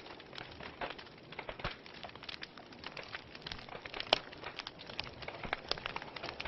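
Wood fire crackling in a fireplace: many small irregular pops and snaps over a soft steady hiss, with one sharper pop about four seconds in.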